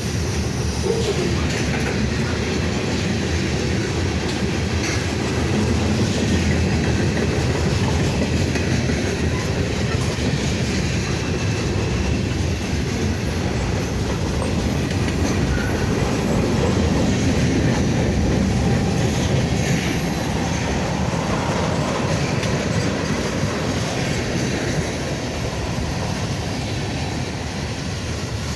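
Freight cars of a slow Union Pacific manifest train rolling past, the steel wheels running steadily on the rails.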